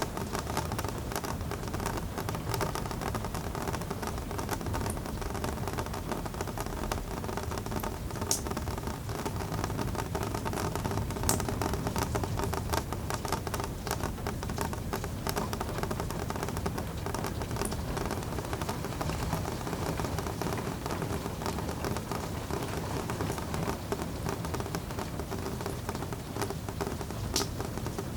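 Steady rain falling, with scattered sharp ticks of single drops landing.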